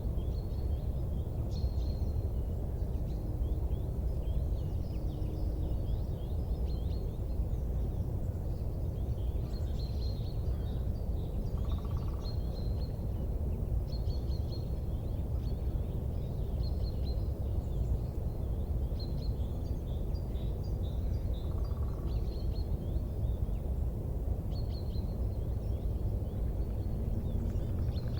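Steady low rumbling background noise with small birds chirping and twittering on and off throughout.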